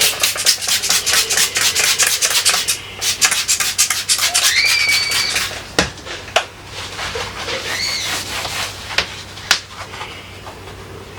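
Hand scrubbing of a refrigerator surface: fast back-and-forth strokes, about six a second, for the first half, then slower, sparser rubbing with a few sharp knocks. Two short, high squeaks come partway through.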